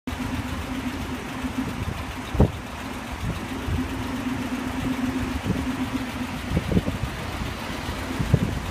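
Dodge WC51's flathead straight-six engine running with a steady low hum and irregular low thumps. The loudest thump comes about two and a half seconds in, and more follow near the end.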